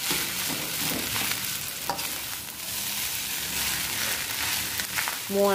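Fried rice sizzling in a hot pan on a gas stove while a metal spatula stirs and scrapes through it, with a couple of sharp knocks of the spatula against the pan.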